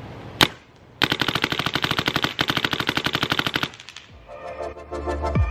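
Smart Parts Dynasty Shocker SFT paintball marker firing a single shot, then a rapid string of shots lasting nearly three seconds. Electronic music comes in near the end.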